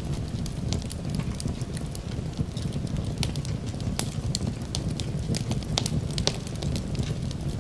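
Wood fire crackling in a fireplace, with frequent irregular sharp pops over a low steady rumble.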